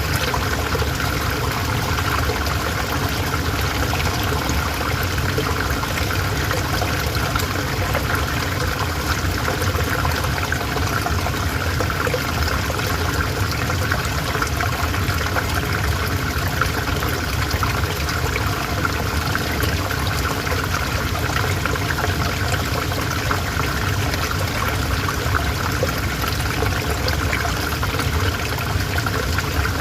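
River water flowing, a steady and even rushing that keeps on without change.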